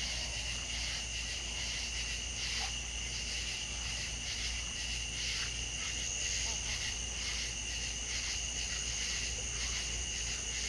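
Outdoor insect chorus: a dense, steady high chirring with a fast pulsing texture, over a low steady rumble.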